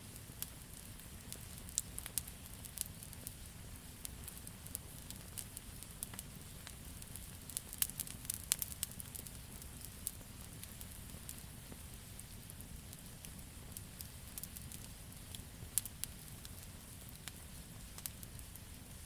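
Campfire of burning wood crackling, with irregular sharp pops and snaps over a steady low rumble of the flames; a flurry of louder pops comes about eight seconds in.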